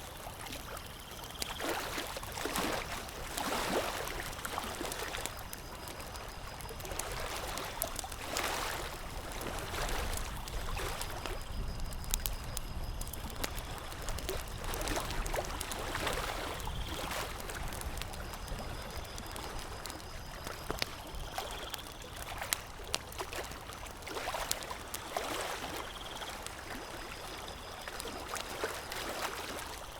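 Campfire crackling with sharp, scattered pops, over lake water lapping at the shore in slow swells every few seconds.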